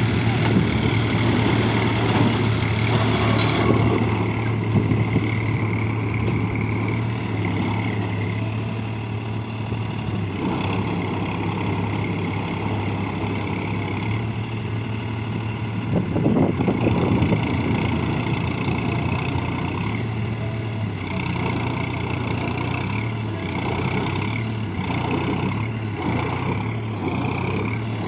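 Heavy diesel engines of tractors and a bus running steadily, with a louder surge about 16 seconds in.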